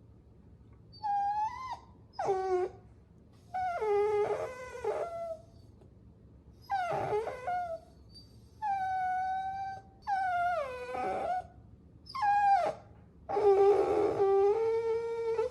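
A puppy whining: a string of about seven high-pitched whines with short gaps between them. Some are held level, others slide down in pitch, and a few have a rougher edge.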